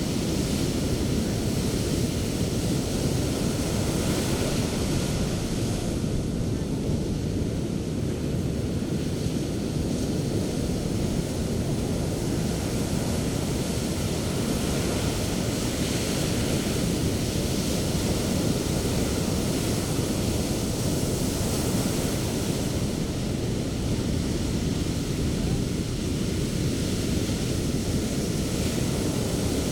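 Sea surf on a beach: a continuous low rumble of waves breaking and washing ashore, swelling and easing slowly.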